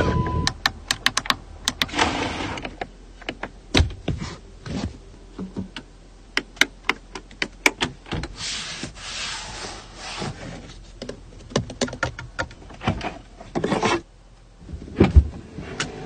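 Irregular sharp clicks, taps and knocks with patches of rustling; a heavier knock comes near the end.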